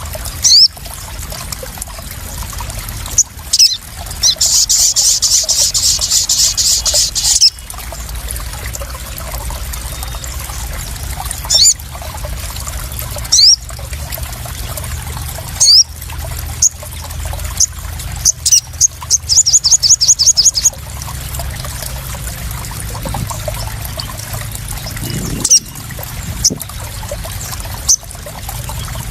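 Sogon (crimson sunbird) calls: sharp, high chips every few seconds and two rapid high trills, over a steady trickle and splash of water.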